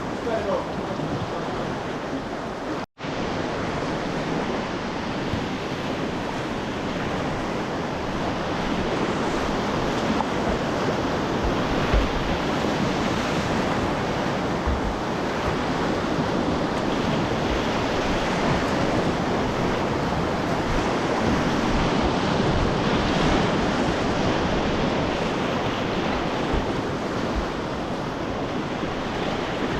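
Whitewater river rapids rushing steadily, with wind on the microphone. The sound cuts out for an instant about three seconds in.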